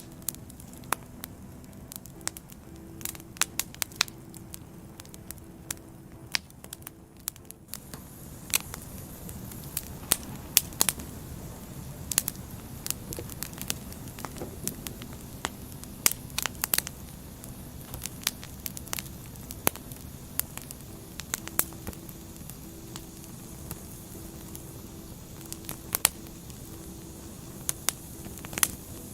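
Firewood burning, crackling with frequent irregular sharp pops over a steady low rush of flame. The pops grow more frequent after about eight seconds.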